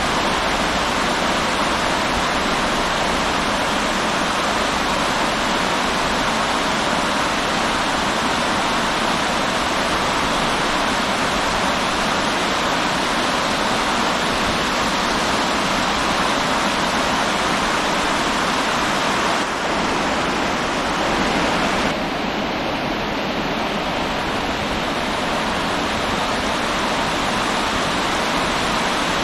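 River water rushing steadily, an even dense sound of flowing water that changes slightly about twenty seconds in.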